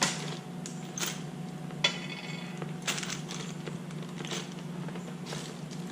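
Small metal parts and packaging being handled and rummaged through: scattered clicks and rustles, with one sharp clink of metal about two seconds in that rings briefly.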